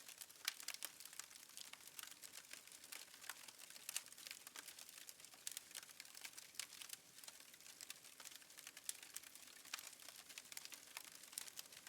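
Faint wood fire crackling, with small irregular pops and snaps several times a second.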